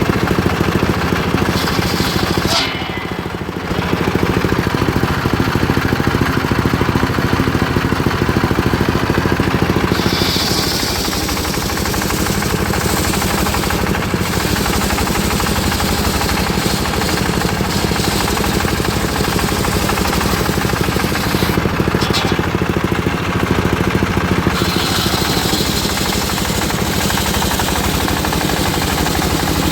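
Homemade circular sawmill rig running: a steady, rapidly pulsing engine drone, with a short drop in level about three seconds in.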